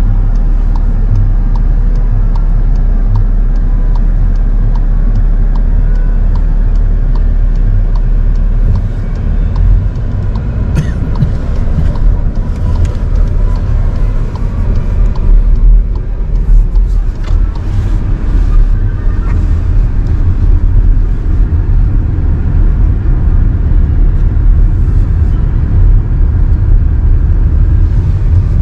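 A car being driven, heard from inside: a steady, heavy low rumble of engine and road noise, which turns rougher and more uneven after about nine seconds.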